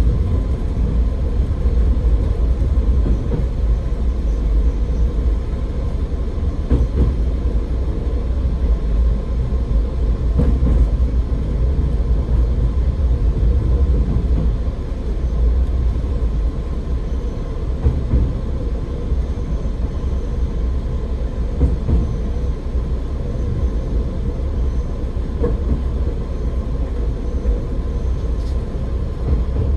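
AN-8800 diesel railcar running along the line, a steady low rumble of engine and wheels on rail, with a few faint knocks now and then, heard from inside the car.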